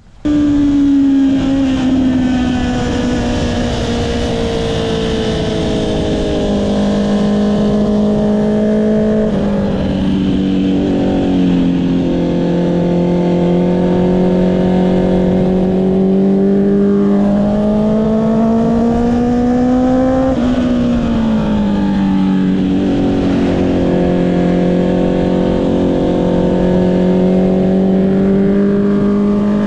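Honda CB650R's inline-four engine with an Akrapovic exhaust running under way on the road, loud and steady. Its pitch drifts slowly up and down, with a few sudden steps as the revs change.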